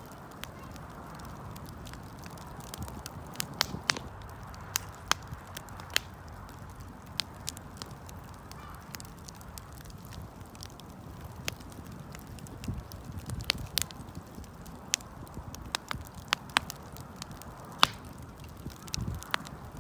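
Wood fire crackling, with irregular sharp pops and snaps over a low, steady hiss.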